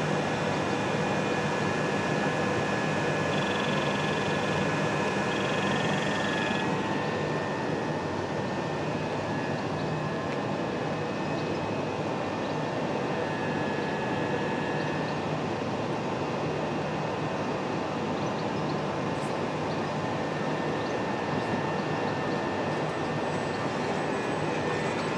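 Class 37 diesel locomotive 37509, with its English Electric V12 engine, running steadily with a steady whine over it. The highest hiss drops away about seven seconds in.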